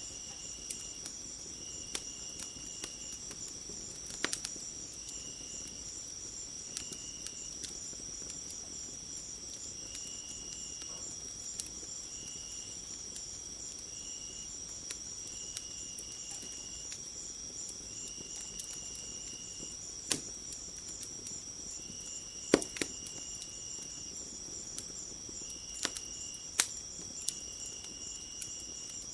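Steady high-pitched chorus of crickets with a pulsing trill, while another insect trills in short bursts every second or two. Scattered sharp pops of a crackling wood fire, the loudest about three-quarters of the way through.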